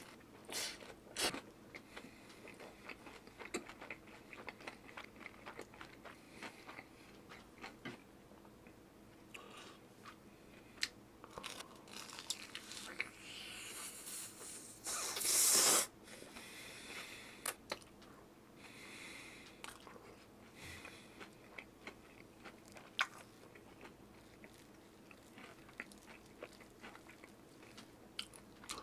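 A person biting and chewing crunchy food close to the microphone, with many small sharp crunches and one louder noisy stretch of about a second halfway through.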